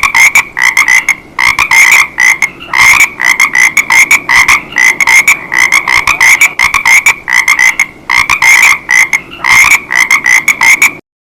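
Frog croaking: rapid short croaks repeated in quick clusters, steady and continuing without a break until just before the end.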